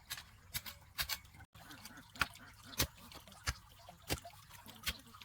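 A series of sharp taps or knocks, about one every two-thirds of a second, with a brief dropout about a second and a half in.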